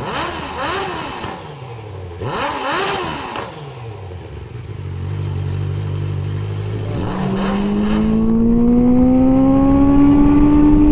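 Honda CBR650F inline-four motorcycle engine with an Akrapovic full titanium exhaust, blipped in two quick bursts of revs. It settles briefly, then pulls away with a long, steady rise in pitch that gets louder toward the end.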